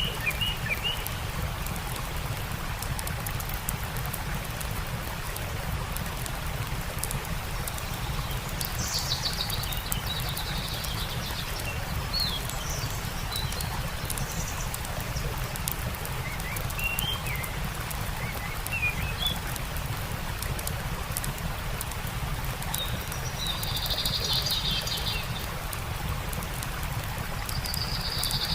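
Steady rush of a stream with a campfire crackling in sharp little snaps throughout, and songbirds chirping and trilling several times, most strongly about nine seconds in, around twenty-four seconds and again at the end.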